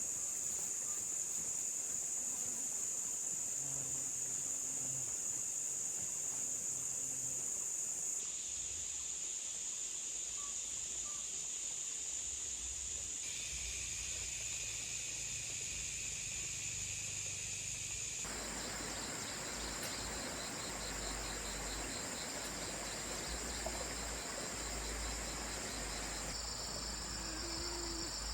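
Steady high-pitched drone of a forest insect chorus. The background under it shifts abruptly several times.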